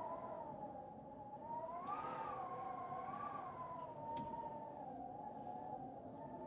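Ambience track of a crackling fireplace, with sharp pops about two and four seconds in, over a steady hiss, beneath a louder wavering howling tone that slowly rises and falls in pitch.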